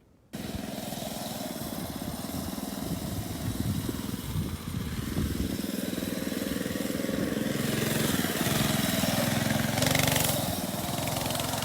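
Baja Warrior MB200 mini bike's small single-cylinder four-stroke engine running, its sound building gradually and peaking near the end.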